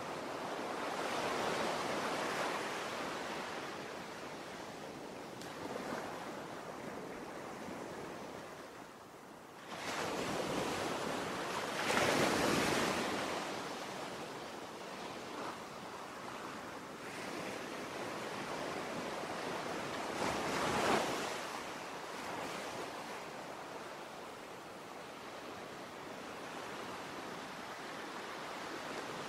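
Ocean waves washing onto a shore, a continuous surf hiss that swells and ebbs, with louder surges about 2, 12 and 21 seconds in.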